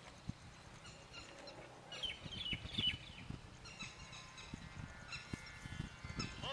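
Birds calling outdoors: a quick run of short falling chirps about two seconds in, then held whistled notes near the end, over irregular soft low knocks.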